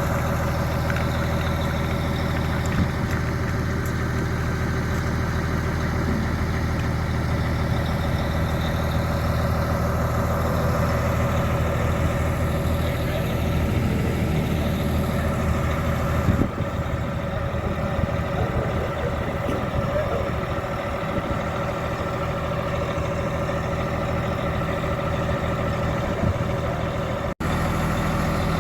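A vehicle engine running steadily with a low, even hum, the sound breaking off for a split second near the end.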